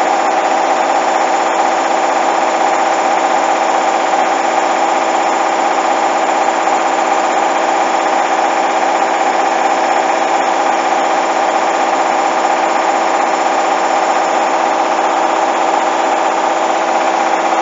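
Hoover front-loading washing machine in its high-speed final spin: a steady motor and drum whine at constant pitch. The load is very unbalanced.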